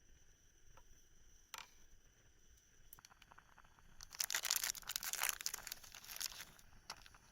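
Crinkly rustling of plastic or nylon material being handled, starting about four seconds in and lasting some two and a half seconds, after a few faint clicks.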